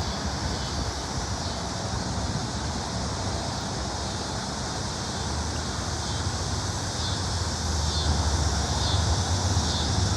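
Steady outdoor noise: wind on the microphone over a constant low hum of road traffic, growing slightly louder in the second half.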